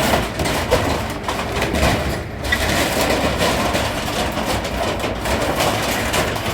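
A heavy engine running steadily, with scattered knocks and clatter through it.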